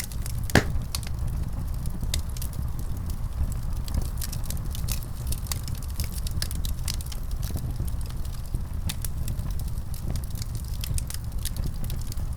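Wood fire in a fireplace crackling: a steady low rumble of flames with frequent sharp snaps and pops, one louder pop about half a second in.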